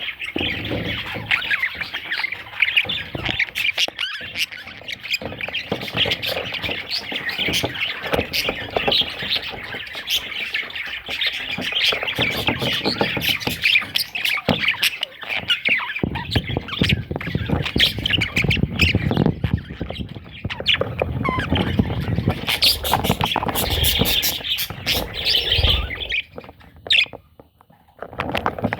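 Budgerigar chattering and warbling, a dense, fast run of chirps and squawks, with a low rumble underneath through the second half that stops shortly before the end.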